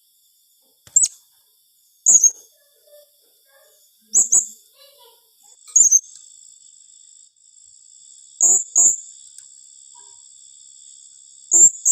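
Blue-crowned hanging parrot (serindit) giving short, shrill, high-pitched chirps, single or in quick pairs, spaced a second or two apart.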